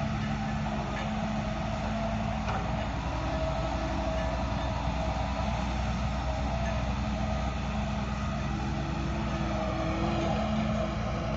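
Heavy diesel engine of earth-moving machinery running steadily at a constant pitch, an even drone with no change in revs.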